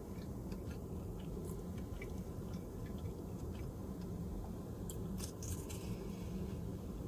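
A person chewing a mouthful of sushi burrito with the mouth closed, with soft wet mouth clicks, over a steady low background hum. A few sharper crackles of fingers picking at the soy-paper wrap come about five seconds in.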